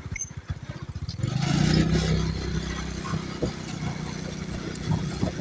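Motorcycle engine running under way, its firing a fast low pulse; it grows louder about a second in and then holds steady.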